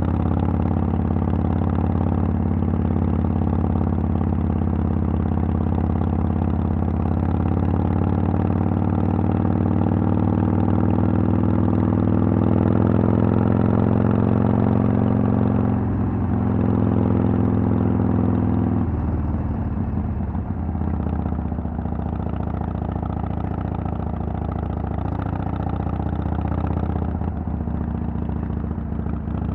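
Harley-Davidson Sportster XL883L's air-cooled V-twin running through a Vance & Hines Twin Slash exhaust. Its pitch rises slowly for the first half, then drops about two-thirds of the way in and settles lower.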